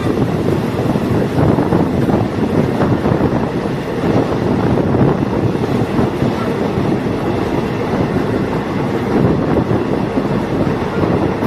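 Steady running noise of a diesel multiple unit train in motion, with wind buffeting the microphone.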